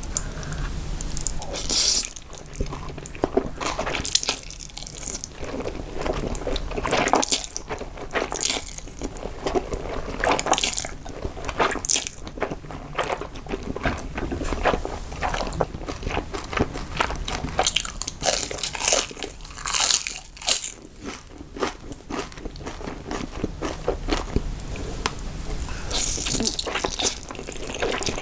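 Close-miked eating sounds: a person biting, crunching and chewing food, with many short crackling bites one after another.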